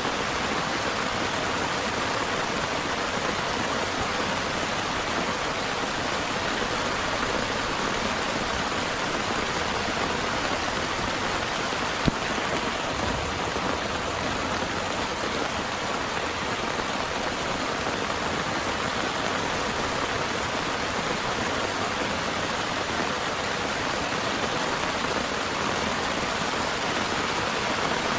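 Heavy rain falling steadily, with a single sharp tap about halfway through.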